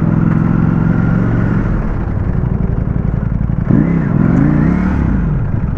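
Ducati Panigale V4S engine running at low revs, then revved up and back down a couple of times about two-thirds of the way in.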